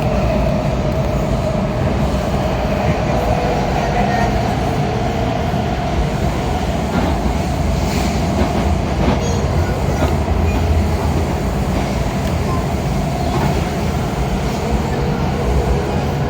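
Ride noise inside a Kawasaki 7000-series Metrorail car running between stations: a steady low rumble of wheels on rail with a constant hum, and a few faint clicks partway through.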